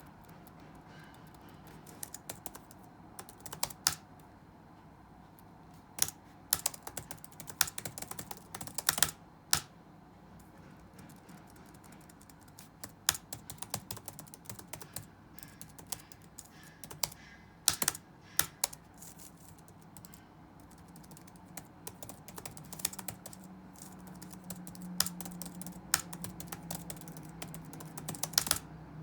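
Computer keyboard typing in irregular bursts of key clicks, with short pauses between runs, over a low steady room hum.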